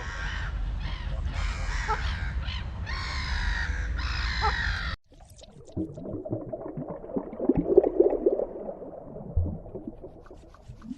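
Geese honking repeatedly, loud harsh calls over a low wind rumble on the microphone. About five seconds in, the calls cut off abruptly and a quieter, lower jumble of sound follows.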